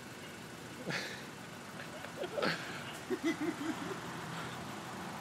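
Car engines idling in a drive-through queue, a steady low running throughout, with a few short pitched voice-like sounds in the middle.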